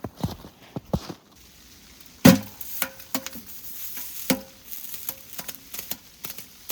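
A series of sharp knocks and clinks from hard objects being handled, the loudest a heavy knock about two seconds in; several clinks leave a brief metallic ring.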